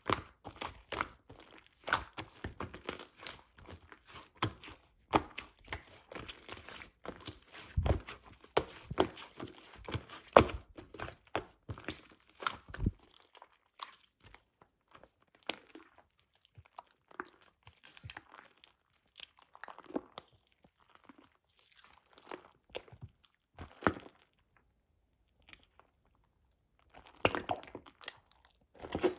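Clear slime mixed with fluffy clay slime being squished and pulled by hand, giving sticky popping and crackling clicks. The clicks come thick and fast for roughly the first half, then grow sparse, pause briefly and return in a quick flurry near the end.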